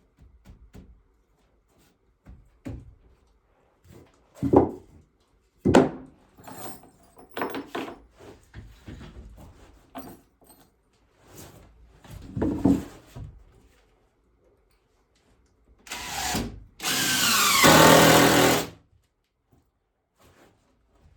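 Scattered knocks and scrapes of wood and tools being handled, then near the end a power drill runs for a moment and then for about two seconds, its pitch falling.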